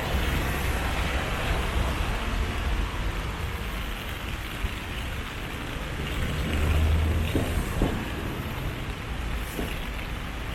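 Rainy city street: a steady hiss of rain with road traffic rumbling by, one vehicle passing louder about seven seconds in.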